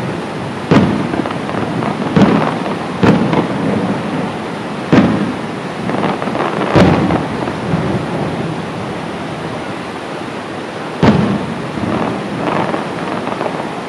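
Aerial fireworks shells bursting in a public display: about six heavy booms, each trailing off in a long echoing rumble off the surrounding mountainsides, over a steady hiss. The booms come every one to two seconds at first, then after a longer gap a last loud one about eleven seconds in.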